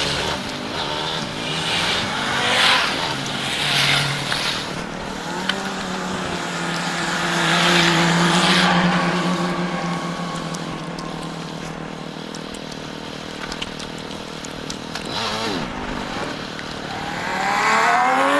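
Motorcycle engine running steadily on the move, with rushing wind and road noise that swells now and then. Other vehicles pass a few times, the loudest near the end.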